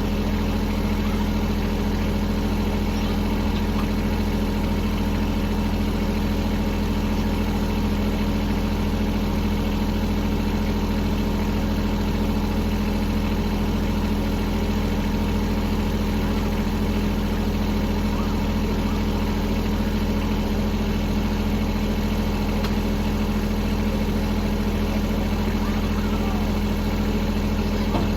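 Kubota L-series tractor's diesel engine idling steadily, with an even low hum that does not rise or fall.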